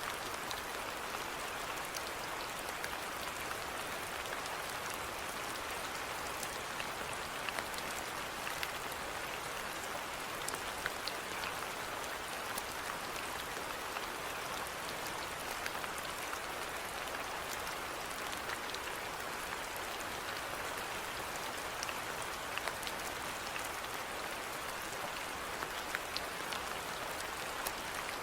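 Steady rainfall: an even hiss with many scattered, sharp drop ticks.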